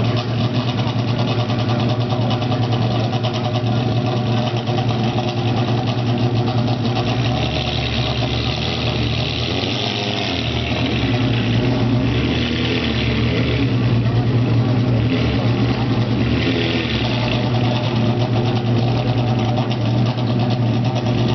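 Race-spec Ferrari 360's V8 idling steadily through a racing exhaust.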